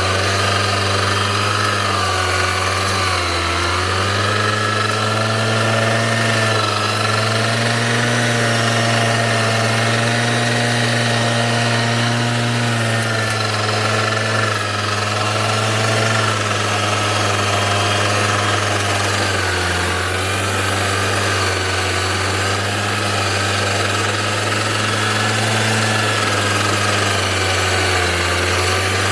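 Self-propelled grass mower's small engine running steadily under work, its pitch wavering and dipping briefly a few times.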